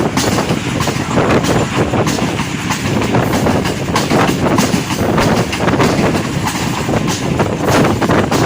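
Passenger train running along the track, heard from on board: a steady rumble of wheels on rail with scattered clacks over the joints.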